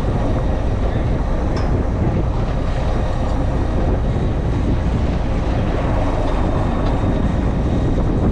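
Fishing boat's engine running, a steady low rumble with the wash of the boat underneath.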